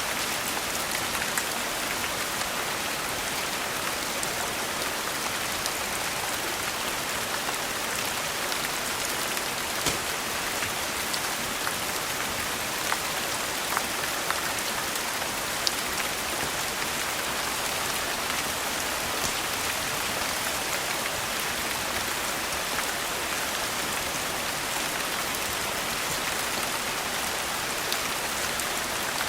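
Steady rain falling, an even hiss with scattered sharp clicks and ticks every second or so.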